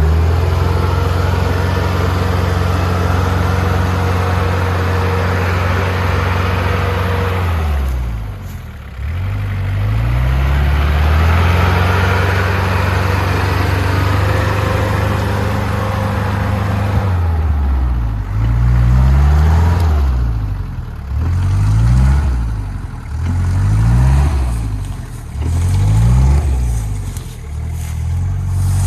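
Off-road 4x4's engine revving hard under load, held high for several seconds, easing off briefly and climbing again. In the second half it revs up and drops back over and over in short bursts about every second and a half.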